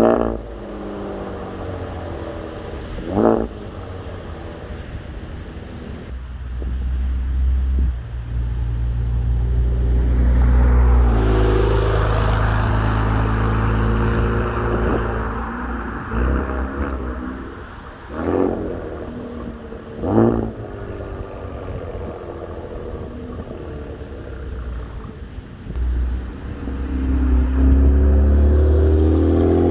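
Infiniti Q50 Red Sport 400's twin-turbo 3.0-litre VR30 V6 running through catless downpipes and a Motordyne Shockwave catback exhaust. It gives several short, sharp rev blips and two longer, louder pulls that rise in pitch: one about a third of the way in and one near the end.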